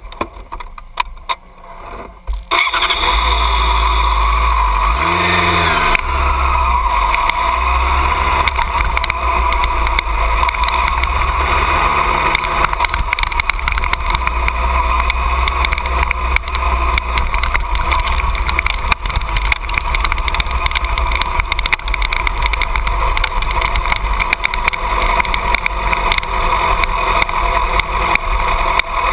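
2008 Yamaha R6 inline-four engine comes in suddenly about two and a half seconds in, revs rise and fall once shortly after, then runs steadily at low speed.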